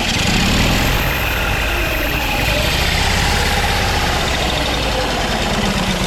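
Small veteran car's engine idling steadily just after being started on its starter motor.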